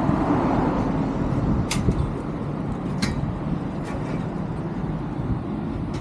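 Street noise: a vehicle passing with a low rumble that is loudest in the first second, and three sharp clicks about a second apart.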